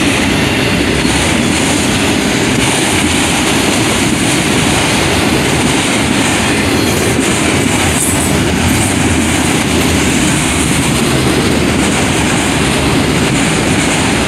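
Freight train of autorack cars rolling past at steady speed: a continuous loud rumble and clatter of steel wheels on the rails.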